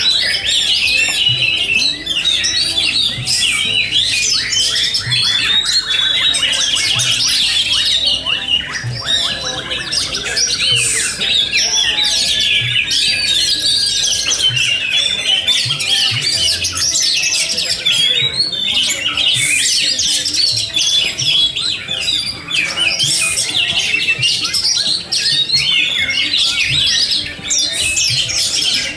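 Many oriental magpie-robins (kacer) singing at once, a dense, unbroken chorus of overlapping whistles and chatter.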